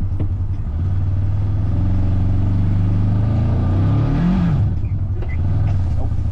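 A vehicle's engine accelerating, rising in pitch for about three seconds. It drops back about four seconds in and settles to a steady run.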